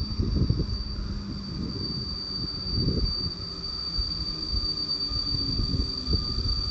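Train running through a station: uneven low rumble and knocks of wheels on the track, with a steady high-pitched whine above it.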